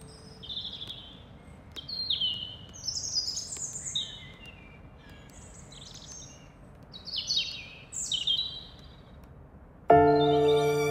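Birds chirping and calling in short bursts of quick, falling high notes over a faint steady outdoor hiss. Background music comes in suddenly near the end, louder than the birds.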